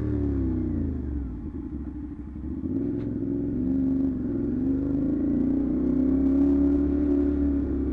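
CFMoto 450SR parallel-twin engine through an SC-Project aftermarket exhaust while riding. The pitch falls as the throttle is closed, then rises steadily from about three seconds in as the bike accelerates, levelling off near the end.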